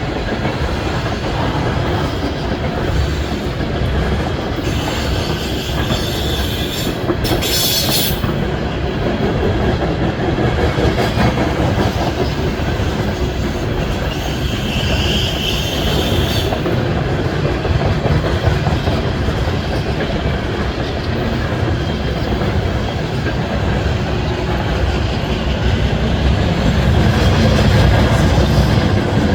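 Loaded coal train rolling past: steady rumble and clickety-clack of steel wheels on the rails. From about five to sixteen seconds in there is added hiss and wheel squeal, with a short sharp burst around eight seconds and a higher squeal near the middle. The rumble swells slightly near the end.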